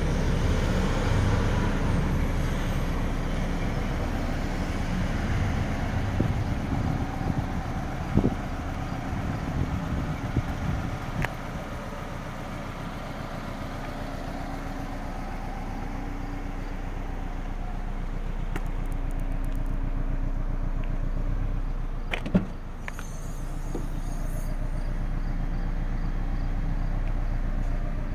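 Subaru Forester's turbocharged 2.0-litre EJ20 flat-four engine idling steadily, its hum swelling and fading a little, with a sharp click about two-thirds of the way through.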